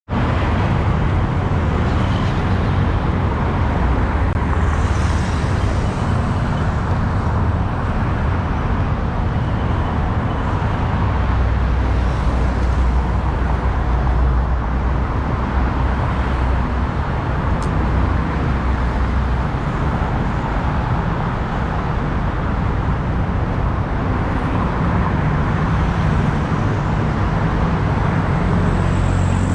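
Steady engine and road noise of a motorbike riding in city traffic, with the surrounding traffic mixed in.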